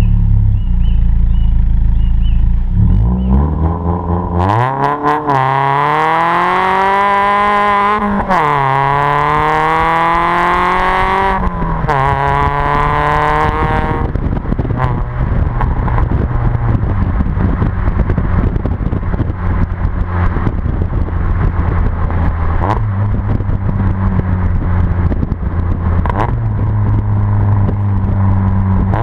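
Ford Fiesta ST's 2.0-litre four-cylinder through a Milltek decat 4-2-1 manifold and non-resonated exhaust: a low idle, then hard acceleration with the revs climbing, dropping at a gear change and climbing again. For the second half it settles into a steady lower drone.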